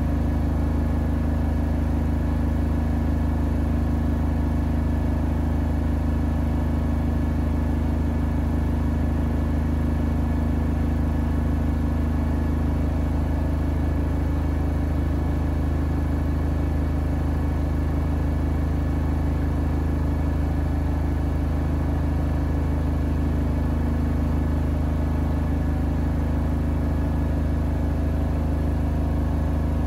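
Siemens iQ700 front-loading washing machine spinning its drum at a steady speed: an even motor hum and whine with no change in pitch, typical of a spin cycle.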